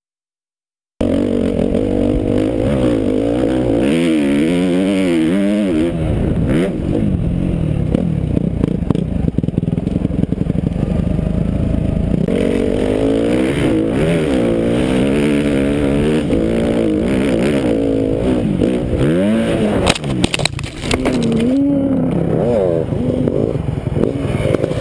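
2011 Suzuki RM-Z250's single-cylinder four-stroke engine revving up and down as the dirt bike is ridden hard over rough trail. About twenty seconds in come a few sharp clattering impacts as the bike hits a rock and the rider goes over the bars, and the engine keeps running after the crash.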